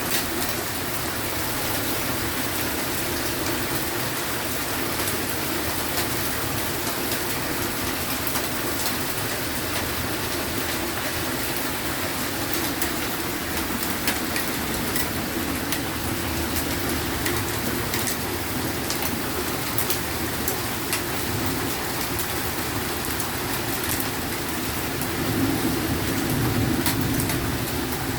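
Heavy rain pouring steadily, with scattered sharp ticks. A low rumble of thunder builds over the last few seconds.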